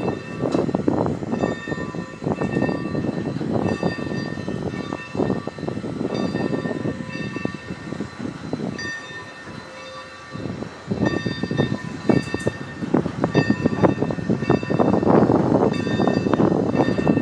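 A train running by, with continuous rattling and clatter from the cars that grows louder about eleven seconds in.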